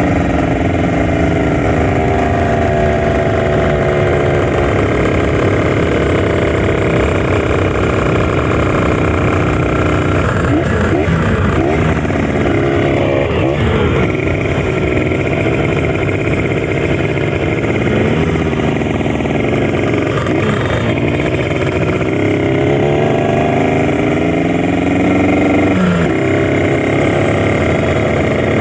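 Kawasaki Ninja RR 150's two-stroke single-cylinder engine running hard at speed. The revs sag slowly at first, waver around ten to fourteen seconds in and again around twenty seconds, then climb and drop sharply at a gear change about twenty-six seconds in.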